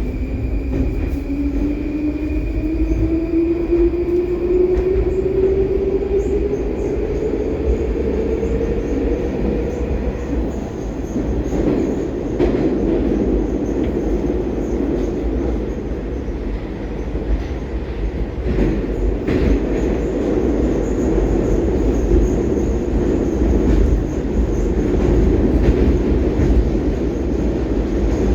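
Metro train running through a tunnel, heard from inside the car. For the first ten seconds the electric traction drive gives a whine that rises steadily in pitch as the train picks up speed. After that the whine stops and a steady loud rumble and rattle of wheels and car body carries on, with scattered clicks.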